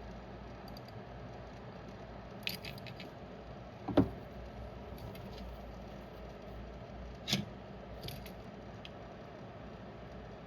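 Light clicks and taps of small tools handled on a workbench during micro-soldering: a few clicks about two and a half seconds in, a sharper knock around four seconds, then another click near seven seconds, over a steady low hum.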